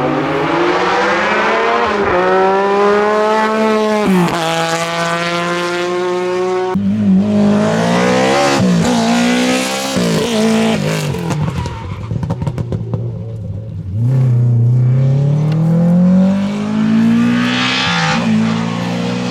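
Rally car engine at full throttle, its pitch climbing and then dropping through several quick upshifts. Off the throttle it falls away with a rattle of crackles and pops, then revs up again.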